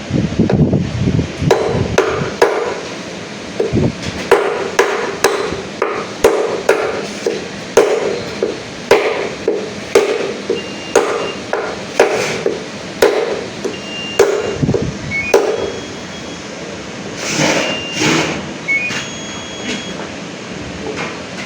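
Repeated hammer blows, irregular at roughly one or two a second, each with a short ring, stopping about fifteen seconds in and followed by two more strikes a couple of seconds later. Several short high-pitched beeps sound in the second half.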